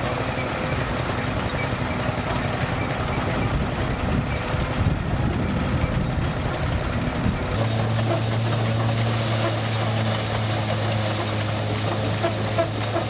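Tractor engine running with a dense low rumble. About halfway through, the sound changes abruptly to a steady low engine hum.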